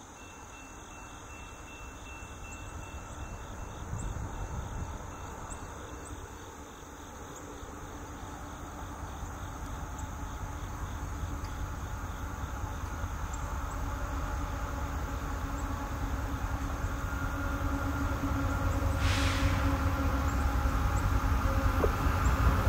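Norfolk Southern freight train's diesel locomotives approaching, their low engine rumble growing steadily louder. Insects chirp in the background.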